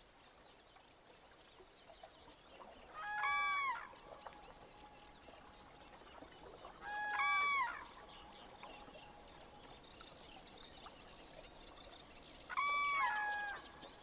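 A waterbird gives three loud, ringing calls about four seconds apart, each lasting under a second. Faint trickling water runs underneath.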